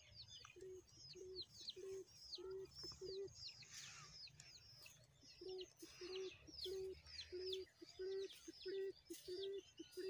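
Birds calling: many short, high, falling chirps, over a series of low, evenly spaced short notes repeating a little under twice a second that pause for about two seconds near the middle.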